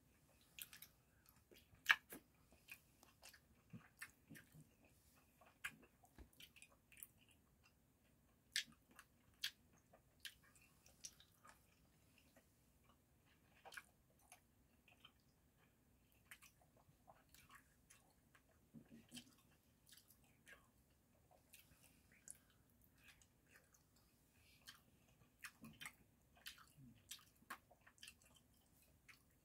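Faint chewing of soft smoked salmon slices, a run of irregular short wet mouth clicks.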